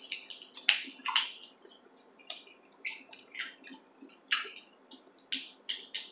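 Eating snow crab: chewing with a string of short, sharp mouth clicks and smacks, the loudest two about a second in, while the meat is picked out of the crab leg's shell by hand.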